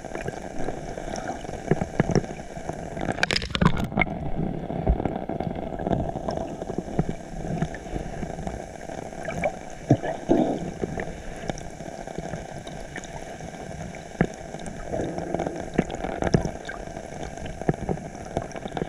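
Seawater sloshing, gurgling and splashing around a swimmer's camera in choppy water, sounding muffled, with one louder splash about three and a half seconds in.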